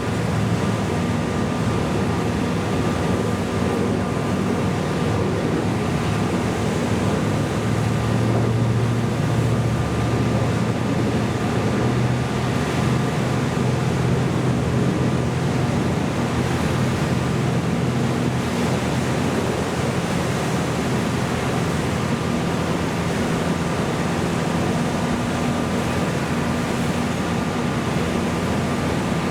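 Steady drone of boat engines over rushing water and wind noise, with a low hum that swells a little about a third of the way in.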